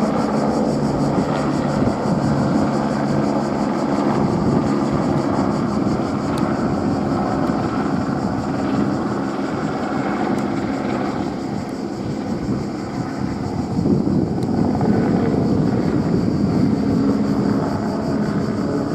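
Airbus AS350 helicopter flying: the main rotor and turbine run steadily, loudness dipping a little about two-thirds through, then rising again.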